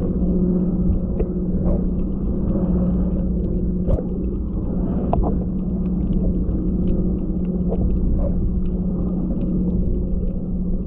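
Steady low hum of a motor running, one constant tone over a deep rumble, with faint clicks and taps scattered through it.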